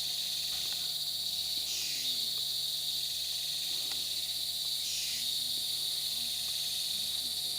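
Rainforest insect chorus: a steady high-pitched buzz that swells briefly about every three seconds.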